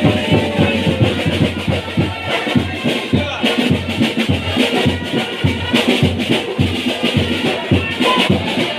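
Indian band baja street band playing, with dense, rapid drum beats driving the music.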